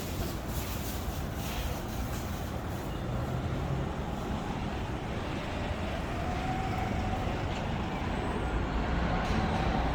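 Road traffic on a city street: a steady rumble of passing vehicles, with a faint engine whine that rises in pitch through the second half.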